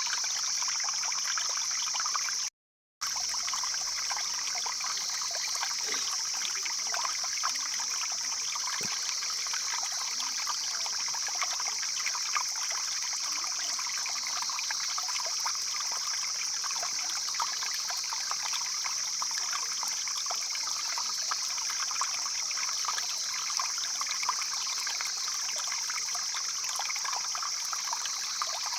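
Stream flowing over rocks: a steady rush of water with fine splashing, with a constant high-pitched hiss over it. The sound cuts out completely for about half a second roughly two and a half seconds in.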